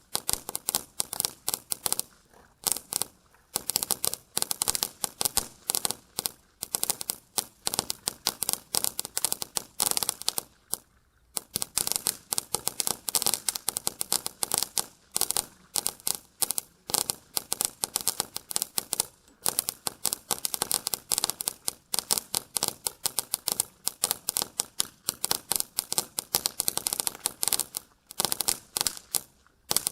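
Winda 'Noisy Boys' firecrackers going off in rapid succession: a fast, continuous crackle of sharp pops, broken by a few brief pauses.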